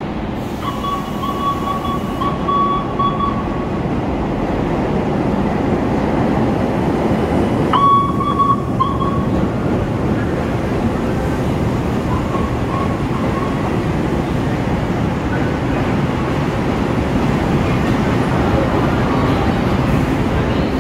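CTA 2600-series rapid transit train rolling into an elevated station and past along the platform: a steady rumble of wheels on the rails that builds over the first few seconds. A high steady tone sounds twice, in the first few seconds and again about eight seconds in.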